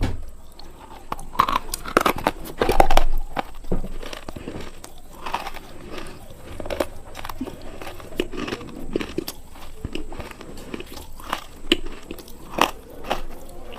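Close-miked biting and chewing of something hard and crunchy: repeated crisp crunches with crackling between bites, loudest about two to three seconds in.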